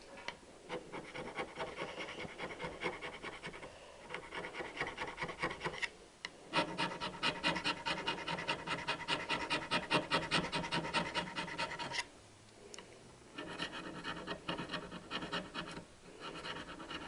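Metal scraper rasping hard carbon off a Triumph 650 engine valve in quick back-and-forth strokes, several a second. It comes in three spells with short pauses about 6 and 12 seconds in.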